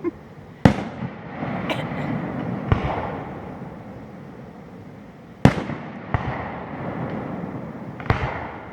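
Fireworks display: aerial shells bursting with about six sharp bangs, two of them much louder, each trailing off in a rolling echo that fills the gaps between them.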